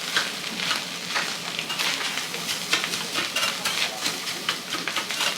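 Metal spatulas clacking and scraping quickly and repeatedly on a hot teppan iron griddle, with food sizzling underneath.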